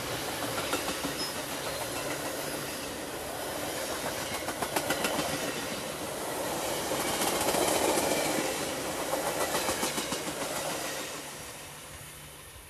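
Bilevel passenger cars of a Metra commuter train rolling past on steel wheels, with clusters of clicking as the wheel sets cross rail joints. The rumble fades near the end as the last car passes and the train moves away.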